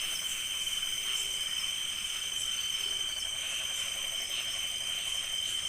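Crickets and other insects trilling steadily in several high pitches, one strong high note above the rest.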